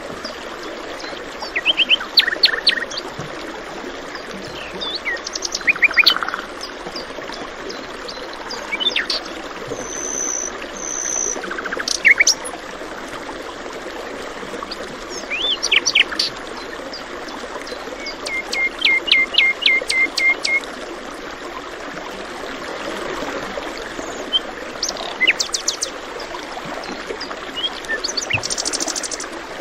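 Several songbirds chirping and calling in short phrases, one giving a quick run of about seven notes, over a steady rush of running water.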